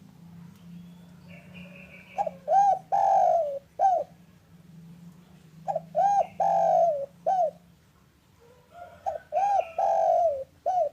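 Spotted dove (derkuku) cooing loudly in three phrases a few seconds apart. Each phrase is a couple of short coos, one longer drawn-out coo that falls away, and a short final coo.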